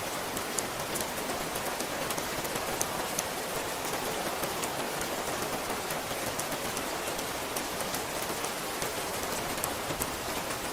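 Steady rain falling, with many sharp, separate drop hits over an even hiss.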